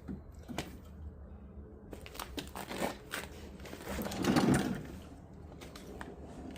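Handling noises of work on a snowblower: scattered clicks, knocks and rustling, with a louder scraping swell lasting about a second from four seconds in, over a steady low hum.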